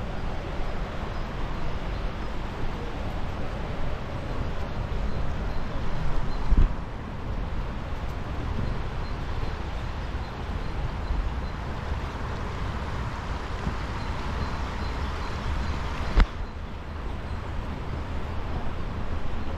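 River water rushing below a stone bridge, a steady wash of noise with wind rumbling on the microphone. There is a single sharp knock about sixteen seconds in.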